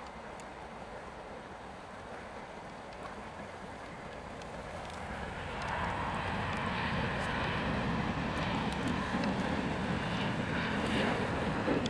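Jet airliner engines running, a steady rush that grows clearly louder about halfway through.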